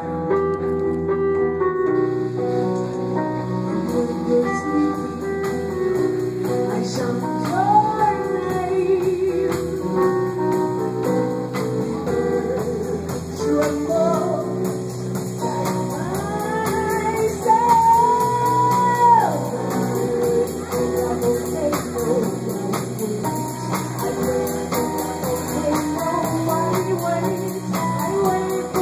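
A band playing a song: a singer holding long, gliding notes over guitar, drums and tambourine.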